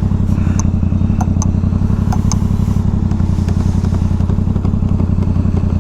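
Motorcycle engine idling at a standstill, a steady, even note with no change in pitch, and a few light clicks in the first couple of seconds.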